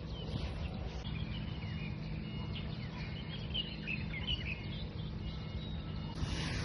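Wind blowing against the microphone, with small birds chirping several times in the middle.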